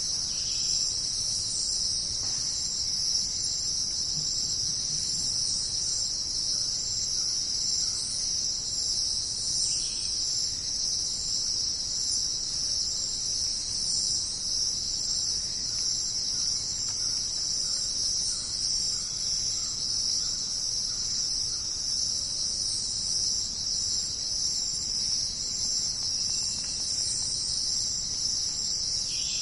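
Dense, steady high-pitched chorus of rainforest insects, with a few faint short calls from other animals now and then.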